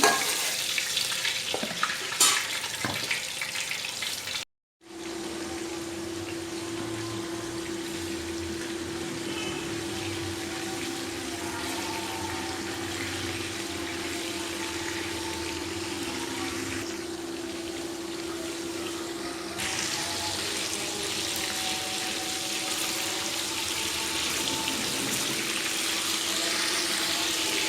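Chicken koftas deep-frying in hot oil, sizzling steadily, with a couple of utensil clicks in the first seconds. The sizzle breaks off for a moment about four seconds in, and a steady low hum runs under it from then on.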